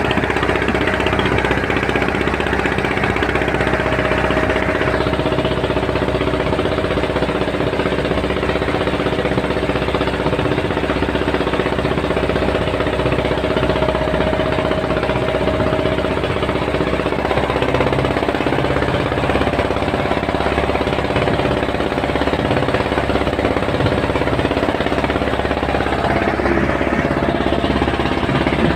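A boat's engine running steadily, its note shifting slightly about 17 seconds in.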